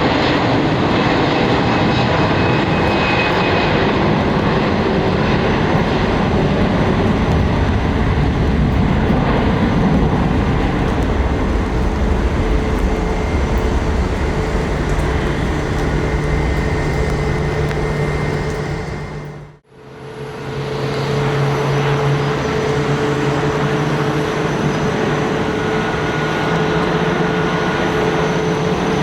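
Jet airliner engines running, a loud, steady noise with a few held tones in it. About two-thirds of the way through it fades out briefly to near silence, then comes back.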